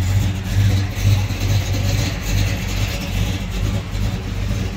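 A car engine idling with a low, uneven pulse that swells about two or three times a second.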